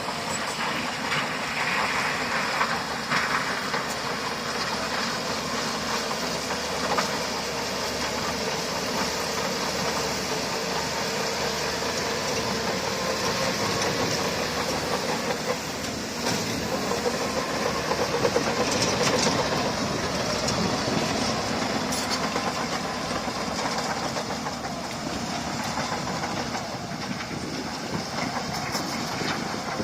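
Crawler bulldozer at work: its diesel engine runs steadily under load, with clanking from the steel tracks.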